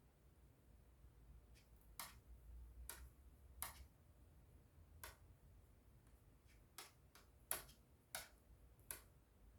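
About a dozen faint, sharp clicks at irregular intervals, some in quick pairs.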